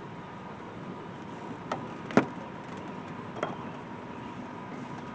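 Three sharp knocks of parts or tools being handled during an air intake install, the middle one loudest, over a steady background hum with a faint steady tone.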